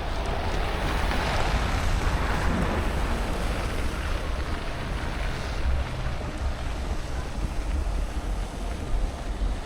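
Blizzard wind buffeting the microphone with a steady low rumble. A rush of noise swells and fades over the first few seconds.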